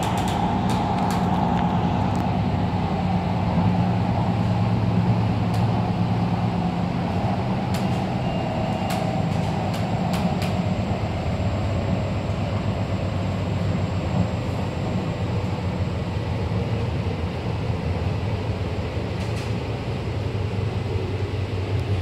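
Cabin noise inside an MTR C-train running along the line: a steady rumble of wheels on rail with a motor whine that slowly falls in pitch as the train slows, and a few scattered clicks and rattles.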